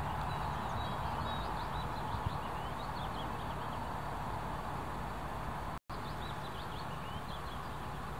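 Small birds chirping in quick runs of short high notes over a steady outdoor rush, with a split-second dropout a little past halfway.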